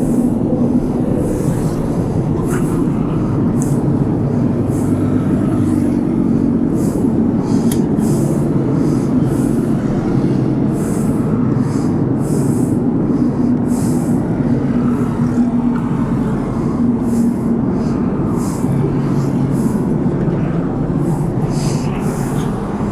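Motorcycle engine running steadily under way, a continuous low drone with short bursts of hiss.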